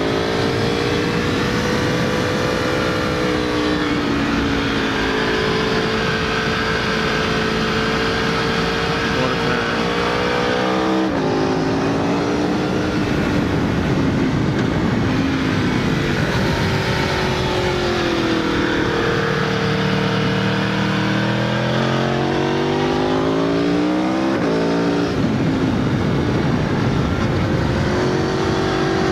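Aprilia Tuono V4's V4 engine through an Akrapovic exhaust, revving up and down as the bike is ridden hard through corners, with a sudden change of pitch at a gear change about eleven seconds in. Wind rush runs underneath.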